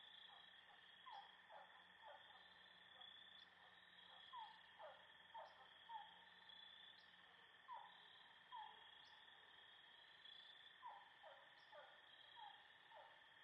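Faint outdoor chorus: insects trilling steadily at a high pitch, with many short, falling calls scattered irregularly over it, of the kind frogs make.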